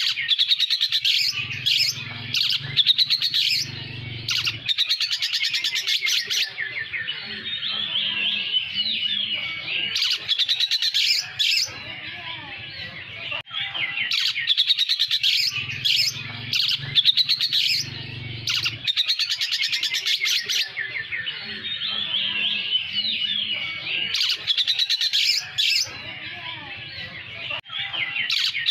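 Oriental magpie-robin (kacer poci) singing a long, fast, varied song of chirps and rapid trills, its song filled with imitated lovebird phrases.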